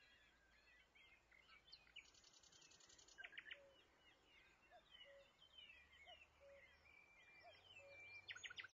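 Faint birdsong: several birds chirping and whistling with many short notes, with a fast buzzy trill about two seconds in and short rattling trills soon after and near the end.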